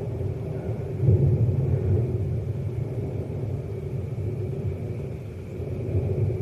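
Rolling thunder: a low rumble that swells about a second in and then slowly dies away.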